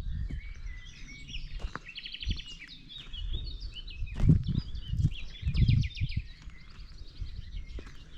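Songbirds singing, with chirps and fast rattling trills, over gusts of low rumble from wind on the microphone, the loudest gusts about four and six seconds in.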